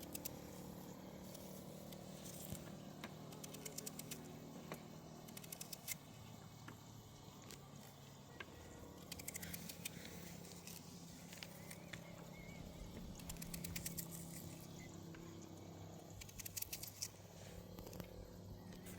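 Faint clusters of small clicks and crackles every few seconds over a low, steady background.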